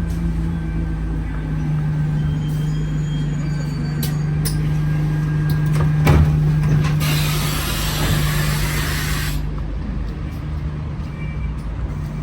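Alexander Dennis Enviro200 bus's diesel engine running with a steady low hum, heard from inside the bus, with a few scattered clicks and rattles. About seven seconds in, a loud compressed-air hiss from the bus's air system lasts about two and a half seconds and cuts off suddenly.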